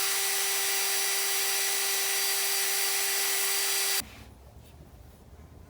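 Electric power drill running at a steady speed with a high, even whine, used to clean surface rust off a motorcycle engine's intake valve. It is switched off and stops abruptly about four seconds in.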